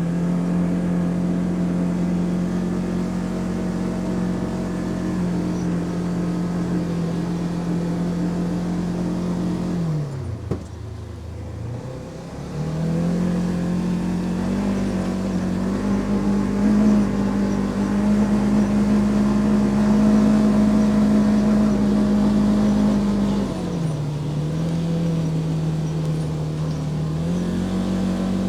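2024 Polaris General XP 4 1000 UTV's twin-cylinder engine running under load while driving through deep snow, holding a steady pitch. About ten seconds in it drops off briefly, then climbs back higher, dipping once more near the end before rising again.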